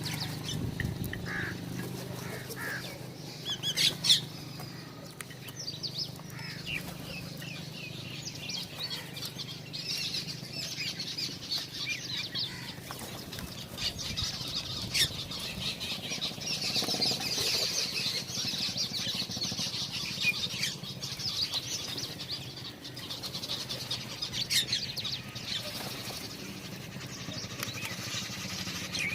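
Small birds at a feeder chirping and twittering, many short high calls overlapping, with a few brief sharp sounds among them.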